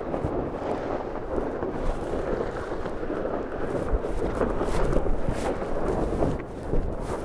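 Wind buffeting the onboard microphone and water rushing past the hulls of a Tornado catamaran sailing fast, with scattered short rustles and knocks as the crew drops the spinnaker.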